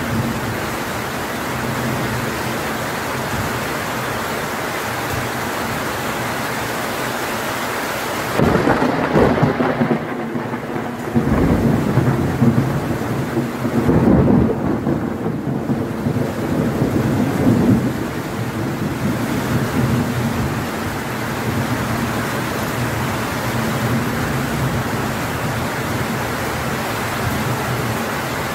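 Heavy tropical rain falling steadily, with thunder rumbling in several rolling swells in the middle.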